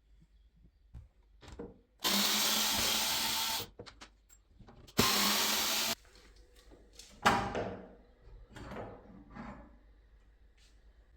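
Power drill running in two bursts, the first about a second and a half long, the second under a second, followed by several clicks and knocks of handling.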